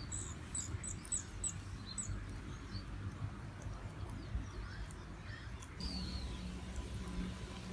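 Small birds chirping: a quick run of short, high-pitched notes in the first two seconds, then a few scattered chirps and a short falling call a little before the end, over a steady low background rumble.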